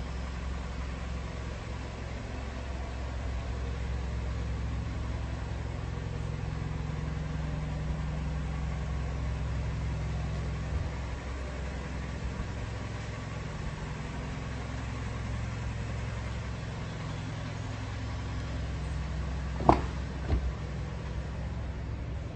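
A Toyota Camry engine idling steadily with a low hum. About 20 seconds in, two sharp clunks sound about half a second apart.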